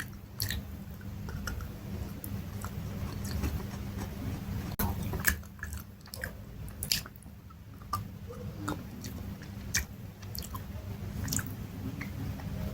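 A person chewing something crunchy close to the microphone. Irregular sharp crunches and clicks come every second or so over a steady low hum.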